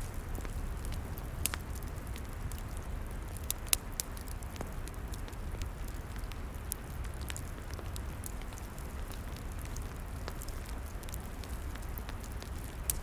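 Log fire crackling: scattered sharp snaps and pops over a steady low rumble, with a couple of louder pops in the first few seconds.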